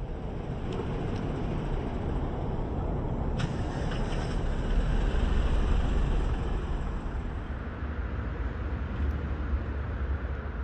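Road traffic noise: a steady rumble that swells to its loudest about halfway through and then eases off, with a few faint clicks.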